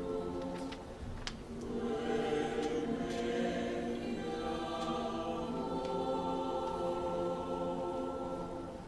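Mixed choir singing a cappella, holding long sustained chords.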